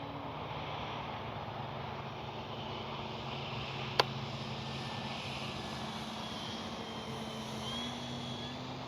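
Brushless electric motor and three-blade propeller of a radio-controlled F4U Corsair warbird running steadily in flight, its pitch rising slightly near the end. One sharp click about four seconds in.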